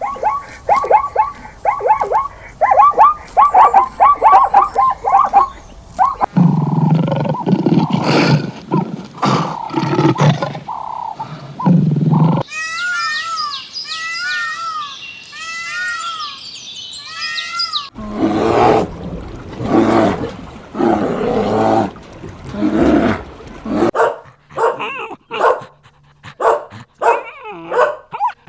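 Different animal calls cut one after another: a run of quick, repeated pitched calls, then several seconds of rough, low calls, then high chirping, then more rough calls and a string of short, sharp sounds near the end.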